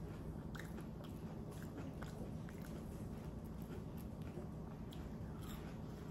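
A person chewing food, with faint scattered mouth clicks over a steady low hum.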